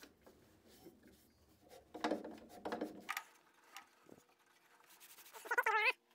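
Rubbing and scrubbing by hand on the rusty metal of an old radial arm saw: scattered light scratches, then a louder stretch of rubbing strokes about two seconds in, and a wavering squeak near the end.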